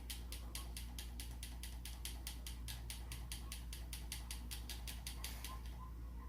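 Rapid, evenly spaced mechanical clicking, about five clicks a second, like a ratchet, over a low steady hum. It stops shortly before the end. The source is an unidentified clicking noise that the listener himself cannot place.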